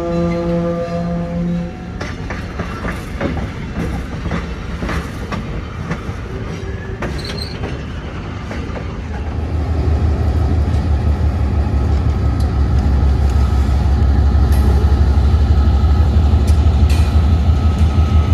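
A train horn chord sounds for the first second or two, then freight cars roll by with wheels clicking over rail joints and a brief squeal. From about nine seconds in, a BNSF GE C44-9W diesel locomotive comes up loud, its engine giving a deep rhythmic throb that grows as it nears.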